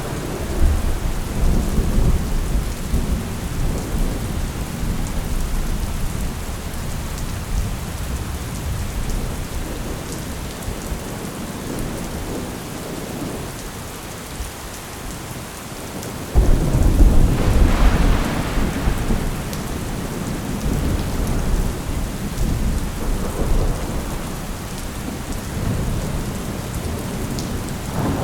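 Thunderstorm: steady heavy rain with rolling thunder rumbling low. About two-thirds of the way through a louder thunderclap breaks in suddenly and rolls on as a long rumble.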